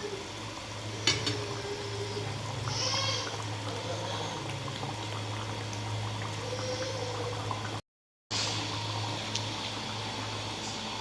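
Egg curry gravy bubbling in a pan, with a steady low hum beneath and a single sharp knock about a second in. The sound cuts out briefly near the end.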